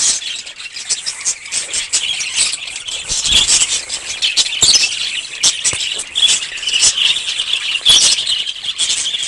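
A parrot chirping and squealing in rapid, continuous chatter, high-pitched, with louder squawks here and there.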